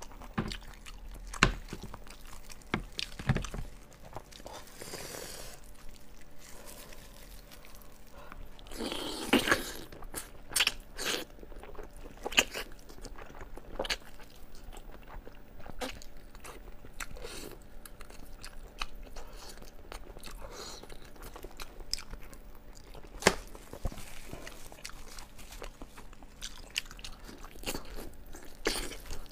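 Close-miked eating sounds of braised sheep's head meat being bitten, gnawed off the bone and chewed: wet chewing and biting with many sharp mouth clicks, loudest in a stretch about nine seconds in.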